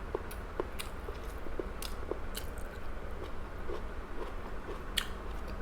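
A person chewing and biting food close to the microphone, with small wet mouth clicks and smacks, and one sharper click about five seconds in.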